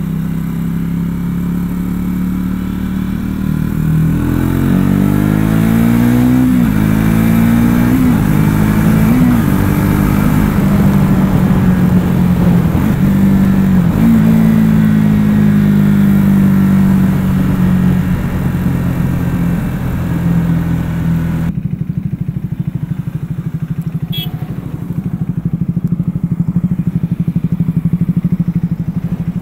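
Triumph Speed 400's single-cylinder engine under way: cruising, then accelerating up through the gears, the pitch rising and dropping at three quick upshifts, then holding a steady cruise. Near the end the sound changes abruptly to the engine idling with rapid, distinct firing pulses, with one sharp click.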